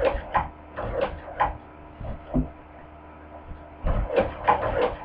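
Hand-crank cobbler's sewing machine stitching thick pleather, sewing smoothly with an even clack about three times a second. It stops for about two seconds midway, with one single knock, then starts stitching again.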